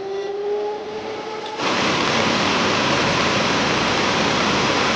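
A steady, fairly quiet tone. About one and a half seconds in, a loud, even rushing noise starts suddenly and holds steady.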